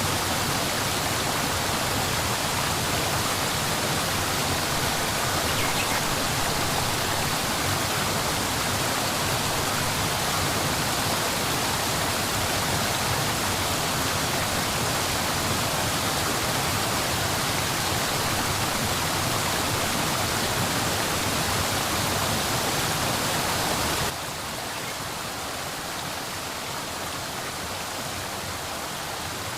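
Steady rushing water, an even unbroken roar with no distinct drops or strikes, which drops abruptly in level a little over three-quarters of the way through.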